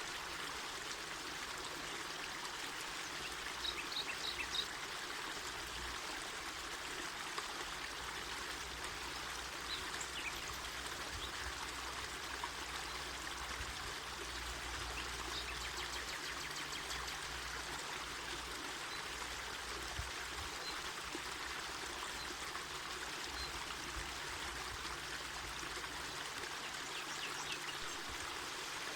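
A mountain forest river flowing over rocks: a steady rush of running water with small splashes and trickles.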